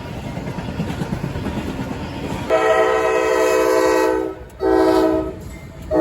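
Freight train rumbling closer, then the lead locomotive's chord air horn sounds: a long blast about two and a half seconds in, a short blast after a brief gap, and a third blast starting near the end, the grade-crossing horn pattern.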